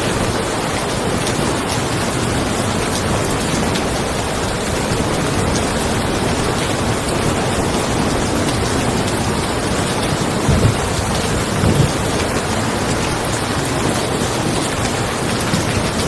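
Steady rain falling on a car, an even hiss with thunder in the mix; two short low thumps stand out about ten and a half and twelve seconds in.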